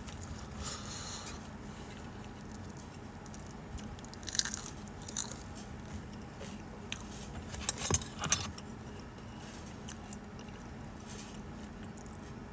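A person quietly chewing food, with a few short sharp clicks and knocks about four to five seconds in and a louder cluster around eight seconds.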